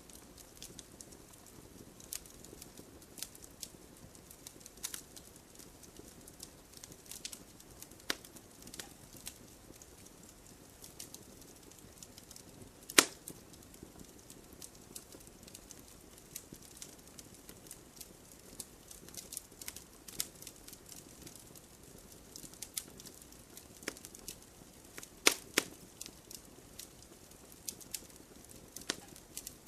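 Wood fire crackling in a fireplace: a soft steady rustle of flames with sharp pops and snaps at irregular times, the loudest pop about halfway through and a quick pair of pops near the end.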